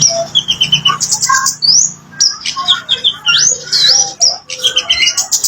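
Kemade bird singing: a fast, busy string of short chirps mixed with whistled notes that sweep sharply up in pitch, repeated over and over.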